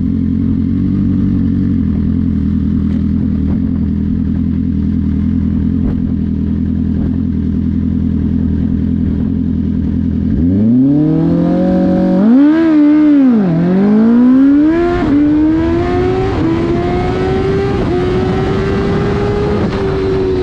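2008 Suzuki GSX-R1000's inline-four engine running steadily at low revs, then about ten seconds in it launches hard. The revs climb and drop in a run of rising steps as it shifts up through the gears, and the pitch falls slowly near the end.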